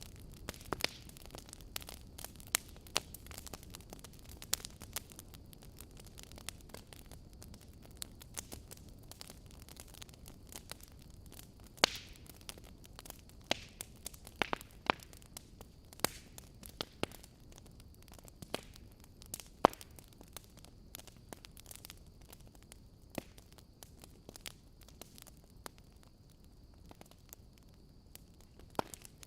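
Wood fire burning in a fireplace: a low steady rumble of flames with frequent irregular crackles and pops, a few sharper and louder snaps among them.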